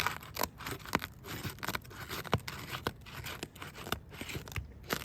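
Vogeler roof shingles being worked loose and lifted by hand: a run of scraping and tearing with many sharp clicks and snaps, as the tabs are pulled up from their sealant.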